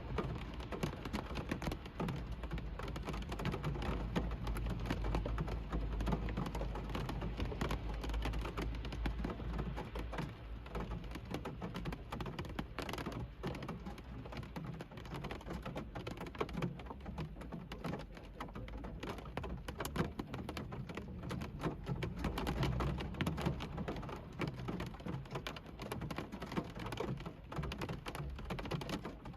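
Rain drumming on a car's roof and windows, heard from inside the car: a dense, irregular patter of drops over a low rumble.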